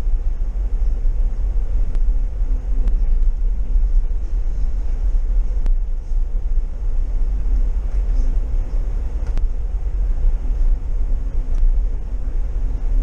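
DD VIRM double-decker intercity train running, heard from inside the carriage: a steady, loud low rumble with a faint hum and a few light clicks.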